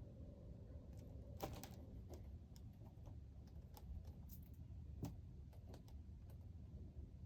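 Faint, irregular light clicks and taps, a small cluster about one and a half seconds in and a sharper single click about five seconds in, over a low steady hum.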